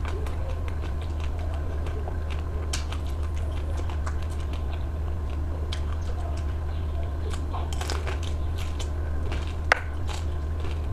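Close-up eating sounds of ice cream: scattered bites and chewing with small crackles, one sharp click near the end, over a steady low hum.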